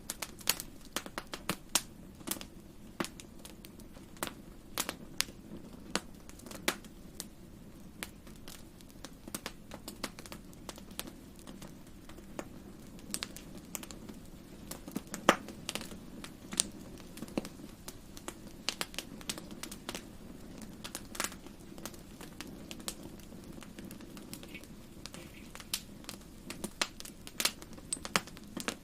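Wood fire crackling: irregular snaps and pops, a few a second, over a steady low rumble of the flames, with one louder pop about halfway through.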